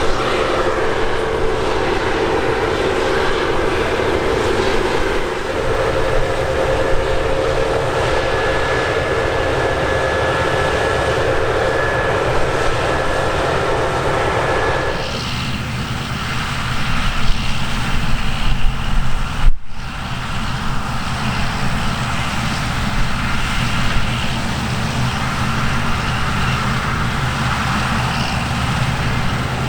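Diesel harvest machinery running steadily, with a steady whine over the engine noise. About halfway through the sound changes abruptly to a lower, rougher engine sound, and there is a brief break about two-thirds of the way in.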